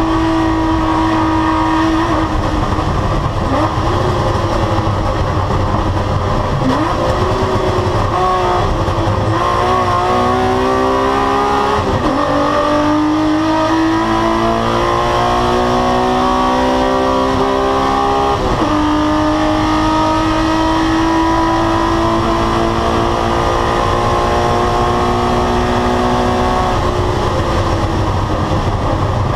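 BMW E36 race car's 2-litre M52 straight-six engine heard from inside the cabin under hard acceleration. The pitch rises and falls through the corners, drops sharply at upshifts about twelve and eighteen seconds in, then climbs steadily again.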